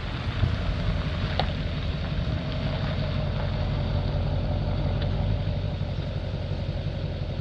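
2006 LBZ Duramax 6.6-litre turbo-diesel V8 running steadily through a straight-piped MBRP exhaust, a deep even exhaust note with a faint steady whine above it.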